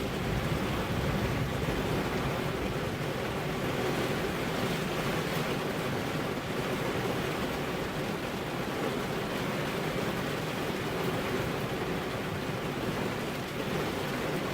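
Heavy rain falling in a steady, even hiss, with a low rumble of thunder dying away in the first second or so.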